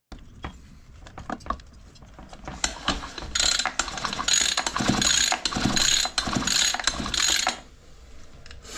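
Ratchet wrench clicking rapidly as the cylinder screws of a two-stroke brushcutter engine are tightened, starting about three seconds in after a few small clicks and knocks of parts being handled.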